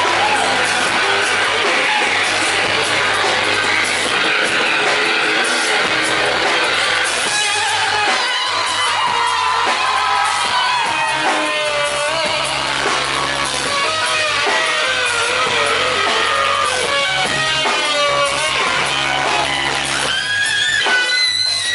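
Live rock music heard from the audience: an electric guitar lead with bending, gliding notes over a bass line and drums.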